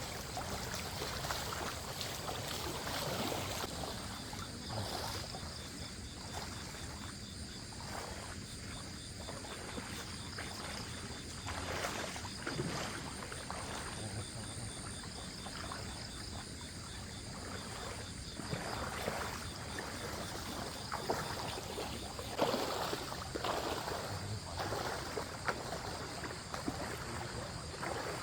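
Someone wading through a shallow stream, water splashing in irregular bursts with each step and trickling in between.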